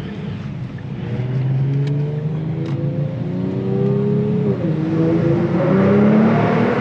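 Kia Stinger GT2's 3.3-litre twin-turbo V6 accelerating hard in a tunnel: the revs climb, drop at an upshift about four and a half seconds in, then climb again.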